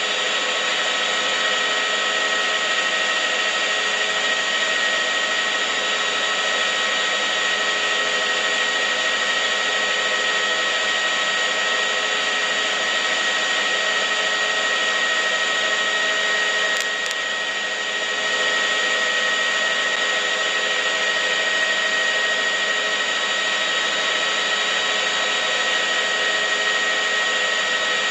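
Steady whirring noise with a high, even whine running through it, unchanging except for a brief slight dip and a tiny click a little past halfway.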